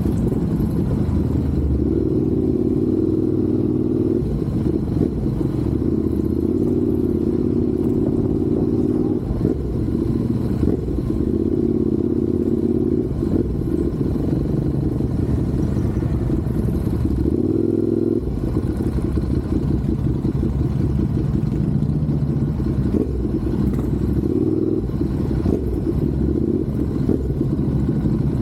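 Motorcycle engine running at a steady loud level, its pitch changing several times with the throttle, with a short rev about two-thirds of the way through.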